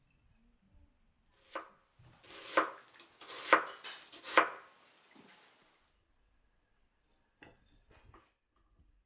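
Knife chopping on a cutting board: one light tap, then three hard strokes about a second apart, each with a short rasp leading into it, and a few lighter taps near the end.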